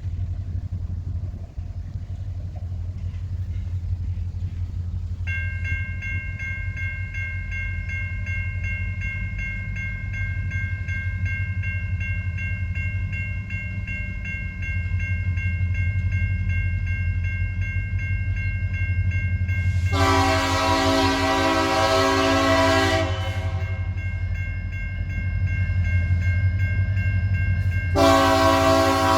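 Diesel freight train locomotive rumbling steadily, with a steady high ringing tone added a few seconds in. The locomotive horn sounds one long blast about two-thirds through, and a second blast starts near the end.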